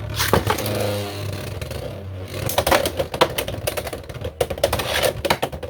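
Two Beyblade X spinning tops launched into a plastic stadium. The launch whirs briefly, then the tops spin and collide, and from about two and a half seconds in there is a rapid run of sharp clacking hits.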